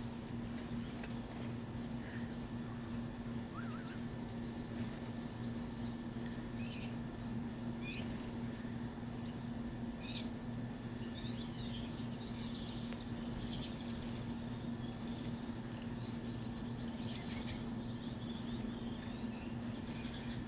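Aviary finches giving short, scattered high chirps, with a stretch of warbling calls in the second half and a few louder chirps near the end, over a steady low hum.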